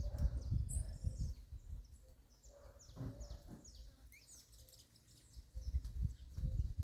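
Several small birds chirping with many short, high, downward-sliding calls overlapping throughout. Under them runs a low rumbling noise in gusts, loudest at the start and again near the end.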